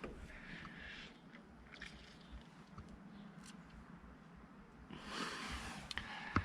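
Faint rustling and handling noises with a few light clicks, a louder rustle about five seconds in, and a sharp click near the end.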